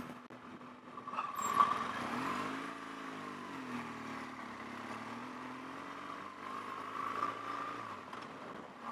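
BMW R1200GS boxer-twin engine under way: it picks up about a second in, its pitch climbs and then eases back down, then it runs fairly steadily.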